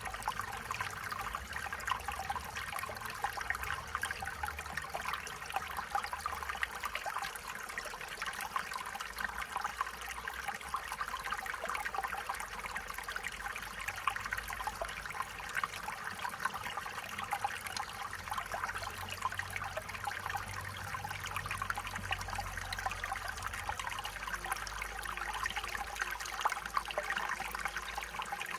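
Stream water flowing and trickling steadily over stones, a continuous bubbling babble.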